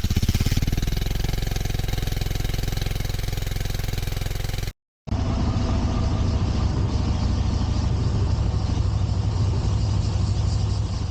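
Yamaha Bolt's air-cooled V-twin engine running with a steady, even pulsing beat, in two stretches split by a short break a little under five seconds in.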